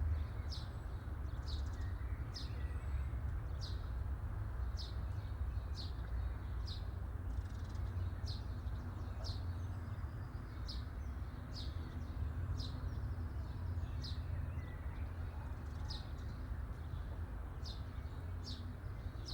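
A small bird chirping over and over: short, sharp, high chirps about once a second, over a steady low background rumble.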